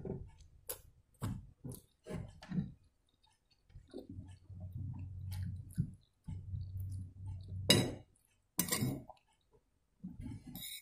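A person chewing mouthfuls of soft instant noodles close to the microphone, with a few short clinks of a metal spoon against a ceramic plate; the loudest two sharp sounds come about eight seconds in.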